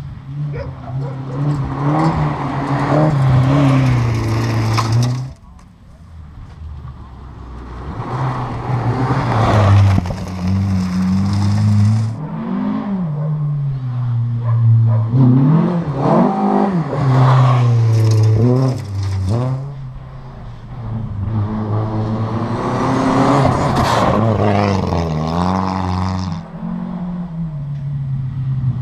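Rally car's engine, a Volvo 240, heard approaching along a gravel special stage out of sight, revving hard through the gears with repeated rises in pitch. It lifts off sharply about five seconds in and again near the end, with a shorter dip around twenty seconds.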